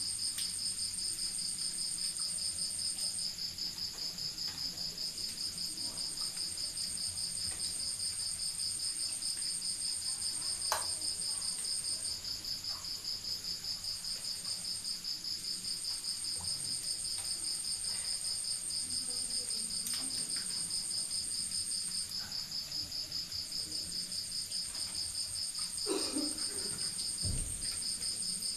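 Night insects, crickets, chirping without pause: one fast pulsing trill and a higher-pitched one that stops and restarts several times. A few faint clicks and a soft low knock near the end.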